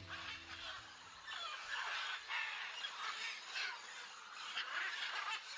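Macaws giving harsh, repeated squawks, which begin about a second and a half in.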